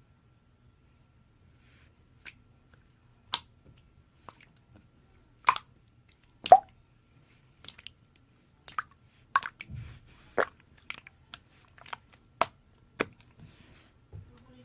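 Slime being mixed and squeezed by hand, giving irregular sharp wet pops and clicks, one after another, after a quiet start.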